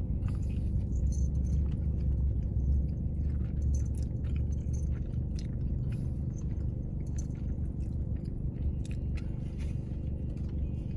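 Chewing and biting into a Biscoff glazed doughnut: soft, scattered mouth clicks over a steady low rumble.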